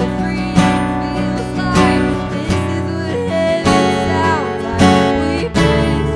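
Worship band music, an instrumental passage led by strummed guitar.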